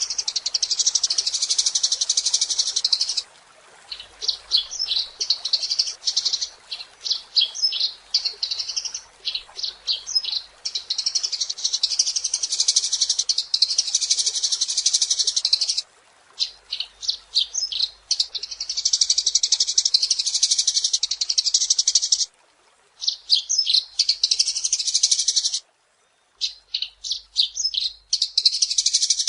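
Eurasian tree sparrow chattering: fast, dense, high-pitched chirps in long runs of several seconds, broken by brief pauses.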